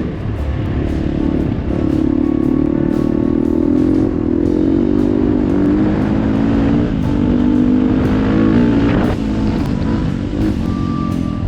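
Dirt bike engine running under way on a trail, its pitch rising and falling with throttle and gear changes.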